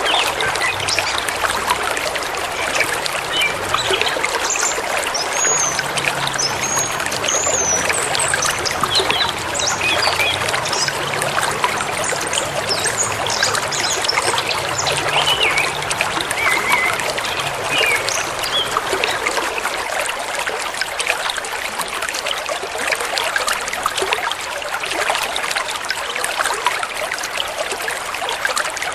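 Forest river or stream splashing steadily over stones, with birds chirping now and then above the water during the first two-thirds.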